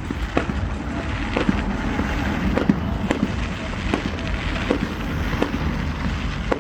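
Fireworks display going off: a steady stream of sharp bangs, roughly two a second, over a continuous crackling rumble.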